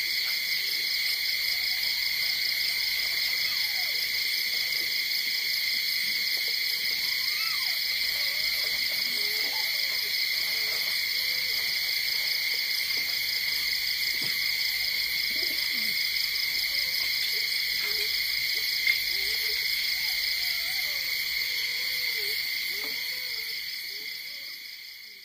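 Steady high-pitched chorus of night insects with faint scattered low calls through it. The chorus fades out near the end.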